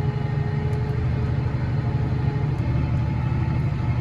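John Deere 7330R tractor's six-cylinder diesel engine running steadily under load while pulling a seven-furrow plough, heard from inside the cab as an even low hum.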